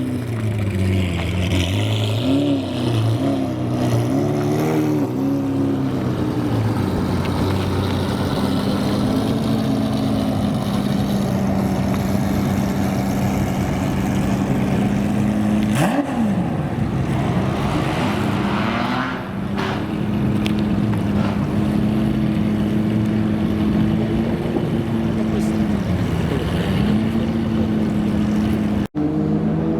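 Sports car engines running at low revs, mostly steady, with small rises and dips in pitch. A hard cut near the end switches to another engine.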